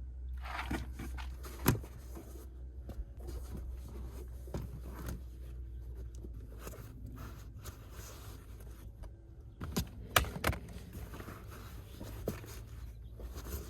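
Objects being handled and moved about: scattered scrapes and knocks, with a sharp clack about two seconds in and a cluster of louder clacks about ten seconds in, over a steady low hum.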